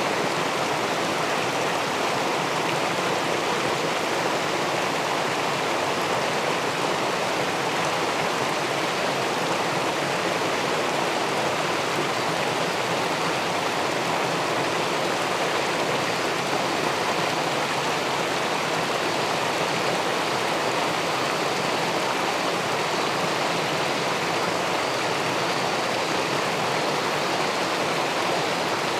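River water pouring over a weir into the pool below, a steady, even rushing.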